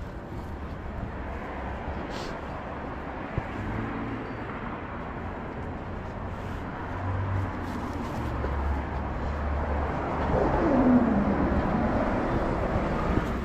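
Wind buffeting the microphone over steady outdoor background noise, with a low rumble throughout and a louder swell near the end.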